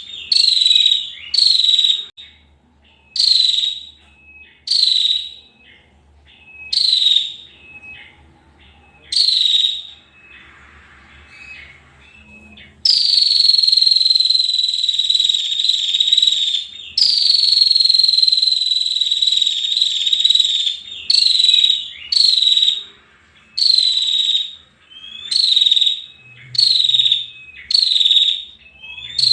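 Female prinia (prenjak) calling: sharp, high short notes repeated about once a second. Midway come two long, high, slowly falling notes of about four seconds each, then the short notes resume.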